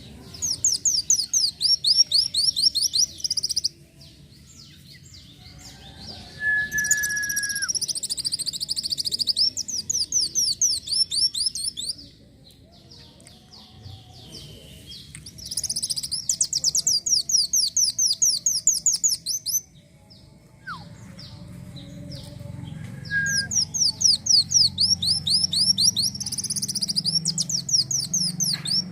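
A kolibri wulung (a sunbird) singing in bursts of very rapid, high trills. There are four bouts, each a few seconds long, with short pauses between them and a few brief whistled notes.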